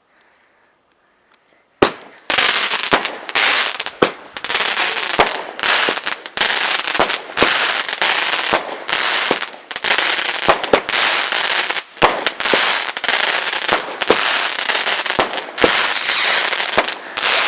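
A large firework barrage going off. After about two seconds of near silence it bursts into loud, continuous crackling, with many sharp bangs in quick succession.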